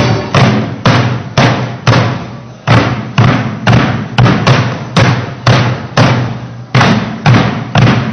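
Korean buk barrel drums beaten together in a heavy, regular beat of about two strokes a second, each stroke ringing out before the next, with a brief pause a little over two seconds in.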